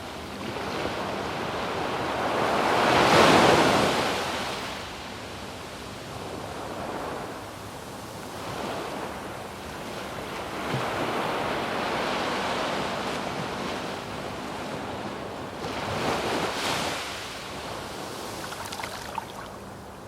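Surf breaking and washing up a sandy beach, in swells: the loudest wave crashes about three seconds in, and smaller ones follow around halfway and near the end.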